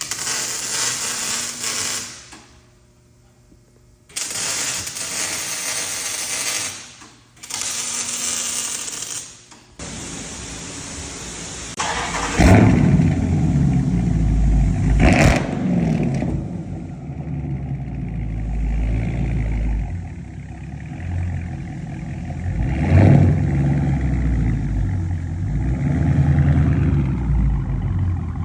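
Dodge Scat Pack's 392 HEMI V8 starting through a straight-piped exhaust with mid and rear mufflers deleted, then running with a deep rumble and blipped three times in sharp revs. Several short bursts of hissing noise come in the first ten seconds, before the start.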